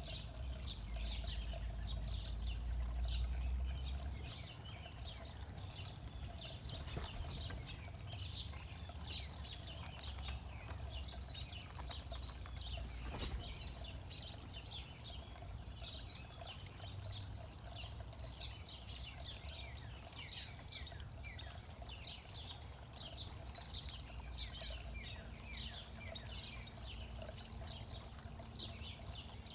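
Many small birds chirping: a dense, continuous run of short, high, downward-sliding chirps. A low rumble sits under them for the first few seconds.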